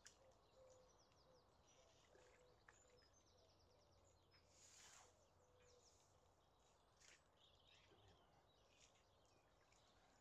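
Near silence, with faint birdsong: repeated short falling chirps, and a brief soft rush of noise about halfway through.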